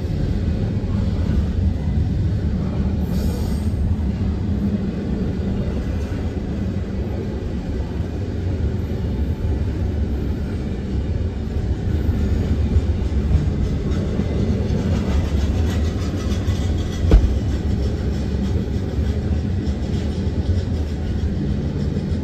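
Norfolk Southern double-stack intermodal freight cars rolling past at a grade crossing: a steady rumble and clatter of wheels on rail, with one sharp knock about seventeen seconds in.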